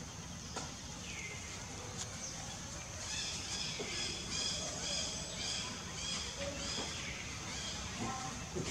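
Outdoor ambience with a steady high insect drone, and a bird calling over and over, short buzzy high notes about two a second, starting about three seconds in and stopping after some four seconds.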